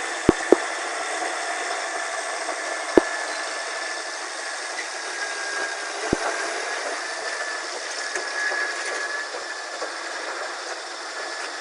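Caterpillar D8N crawler bulldozer running and working: a steady mechanical din with a faint high whine, broken by a few sharp knocks near the start and about 3 and 6 seconds in.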